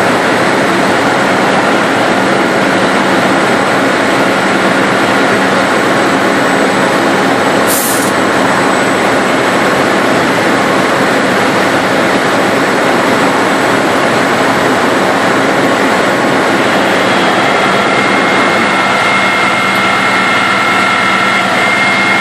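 Heavy diesel tow truck's engine running loud and steady, with a short hiss about 8 seconds in and a higher whine joining in for the last few seconds.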